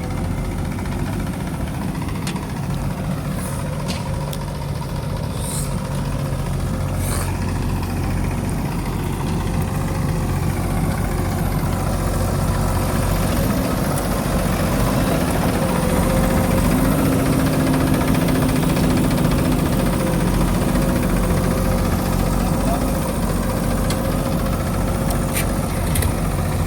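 Diesel engine of a JCB machine running steadily, growing louder about halfway through, as if under more throttle or load.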